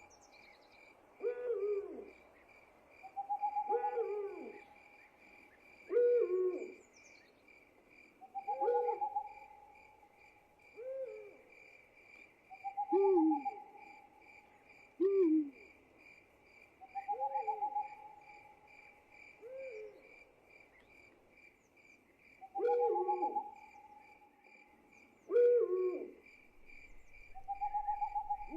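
Night-time soundscape: an owl hooting over and over, short falling hoots about every two seconds, with a longer, higher held note recurring every four to five seconds. Underneath, crickets chirp in a steady, fast-pulsing trill.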